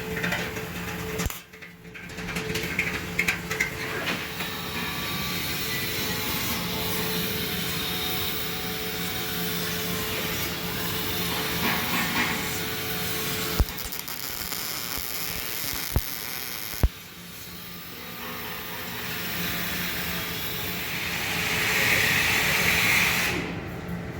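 MIG welding arc crackling and hissing in long continuous runs, over a steady low hum, breaking off briefly about a second and a half in and again around seventeen seconds, with a few sharp clicks shortly before the second break.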